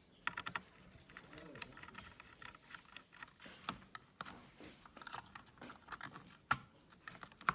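Small tools and laptop parts being handled, giving scattered light clicks and taps, with one sharper click about six and a half seconds in.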